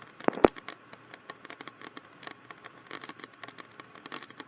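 Faint crackle and scattered clicks on the cockpit intercom audio, with two sharp clicks close together about half a second in.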